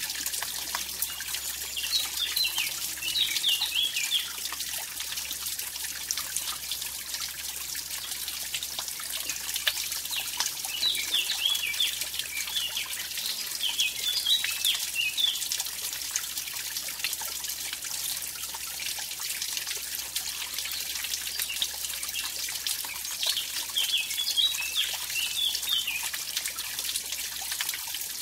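Mountain stream splashing over a small waterfall, a steady hissing rush of water. A small bird sings short warbling phrases three times: near the start, in the middle and near the end.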